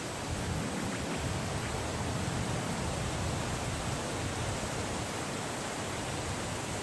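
Wind blowing steadily, a dense even hiss with a fluctuating low rumble; no birdsong stands out.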